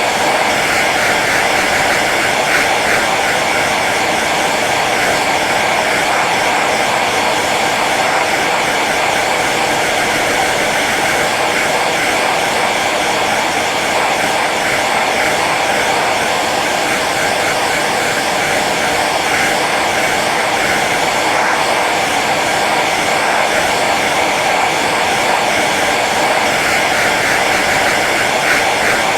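Hair dryer running steadily on its low setting: an even, unbroken rush of blown air.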